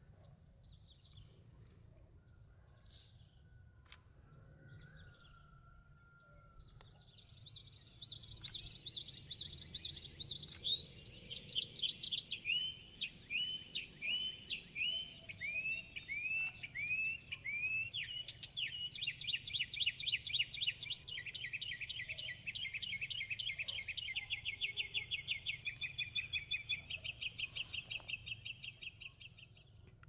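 A bird singing a long song of repeated high notes, starting about seven seconds in. It opens with a fast run, moves to curved whistled notes about two a second, then to a fast trill, over a faint low background noise.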